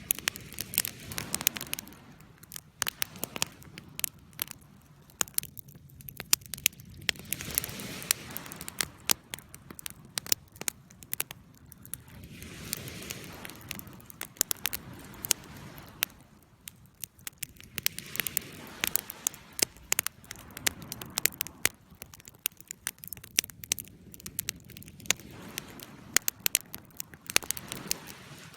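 Wood fire crackling in a fireplace, with sharp pops several times a second over a soft rushing noise that swells and fades every few seconds.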